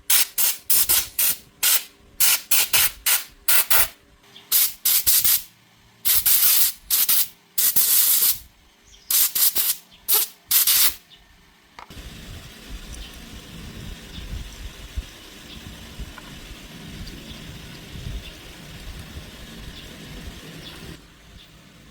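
About twenty short, hissing blasts of pressurised spray in quick succession, some under half a second and a few about half a second long. About twelve seconds in the blasts stop, and a steady, quieter rumbling noise runs on until shortly before the end.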